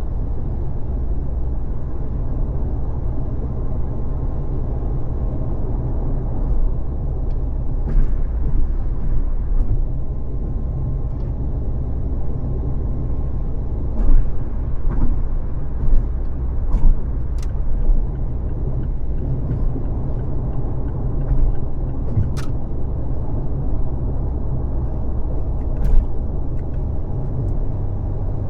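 Car driving at freeway speed: a steady low rumble of road and engine noise, with a few brief clicks or knocks scattered through it.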